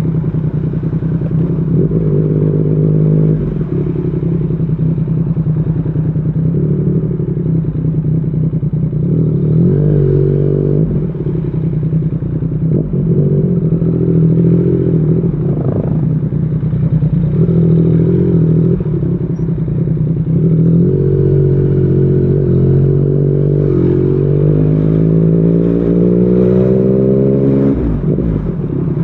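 Yamaha MT-09's three-cylinder engine through a Yoshimura R55 slip-on exhaust, ridden on the road with the revs climbing and easing off several times. Near the end the engine pulls in one long, steady rise in pitch, then the throttle shuts and the pitch drops.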